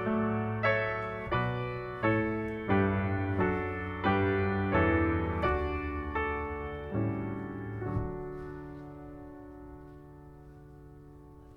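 Piano playing a slow run of chords, each struck and left to ring, ending on a final chord about eight seconds in that is held and slowly fades away.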